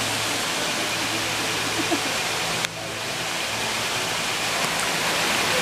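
Steady rush of flowing water from a mountain stream or waterfall. The sound drops suddenly about halfway through and swells back over the next second.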